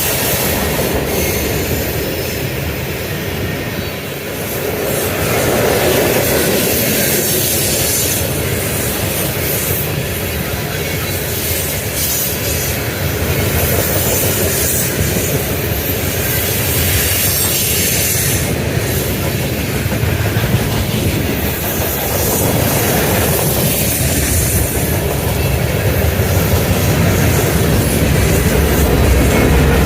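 Freight train rolling past close by: a steady, loud noise of steel wheels running on the rails.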